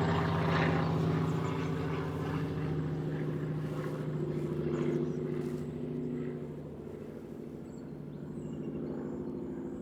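A plane's engine drone as it flies overhead, a steady hum that fades away after about six seconds. Faint high eagle calls come in near the end.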